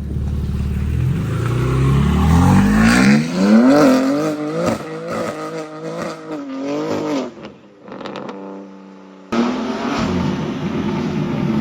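BMW M4 Competition's twin-turbo straight-six, fitted with downpipes, intakes and a tune, revving hard: the pitch climbs steeply, then rises and falls repeatedly with the throttle, drops back to a steady lower note around eight seconds, and the loud engine and road noise return abruptly about a second later.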